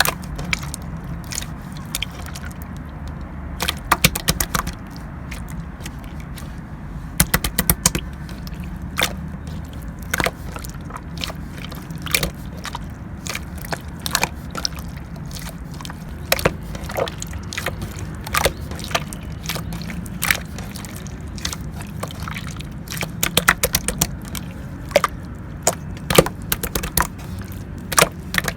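Light purple clear slime being pressed and squished by hand, giving irregular sharp clicks and pops of trapped air, in places several a second, over a steady low hum.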